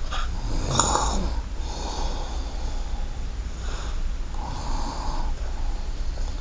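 A person breathing close to the microphone: four slow, soft breaths a second or two apart, over a steady low hum.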